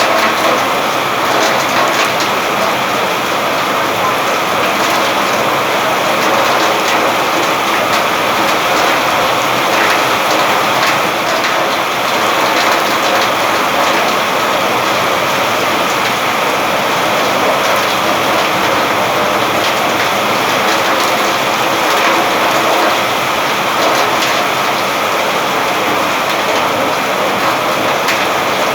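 Steady heavy rain falling and drumming on surfaces, a dense even hiss with many individual drop hits.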